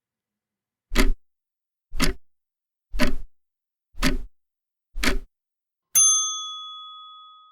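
Countdown sound effect: a clock ticking five times, about once a second, then a single bell ding that rings and fades away.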